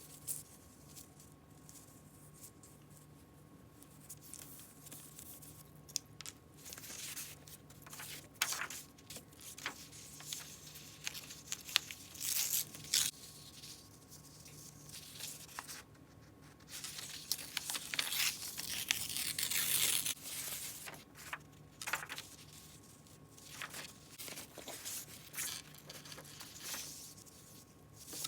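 Paper being torn by hand: a series of short rips and longer tears with paper rustling and crinkling between them, the longest tear about two-thirds of the way through.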